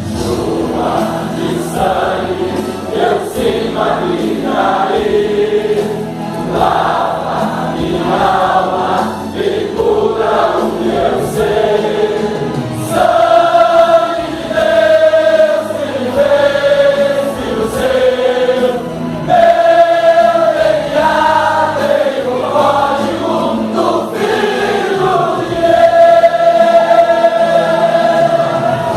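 A men's choir singing a gospel hymn. The sung lines give way to long held notes in the second half.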